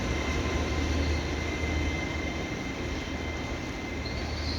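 Train running through the station, a steady low rumble that slowly fades. A high thin whine comes in near the end.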